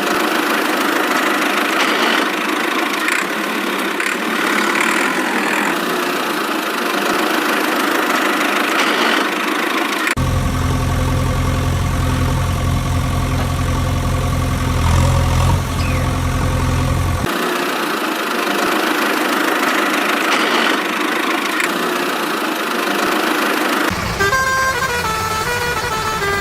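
Dubbed-in motor vehicle engine sounds with horn honks, cut together in abrupt segments: a low steady engine hum in the middle stretch, and a run of changing horn-like tones near the end.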